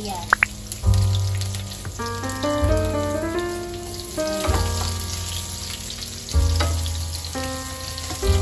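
Chopped garlic and onion sizzling in hot oil in a nonstick pan over a gas flame while being stirred with tongs, under background music with a steady bass line.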